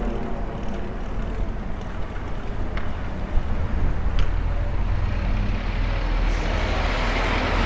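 Steady low wind rumble on the microphone while cycling, under engine noise from nearby motor vehicles. One engine's tone fades away early, and a rushing engine sound swells toward the end.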